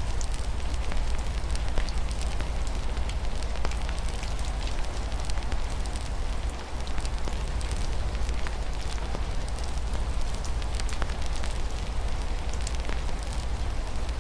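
Fireplace fire crackling with many small irregular pops over a steady hiss of rain, with a low rumble underneath.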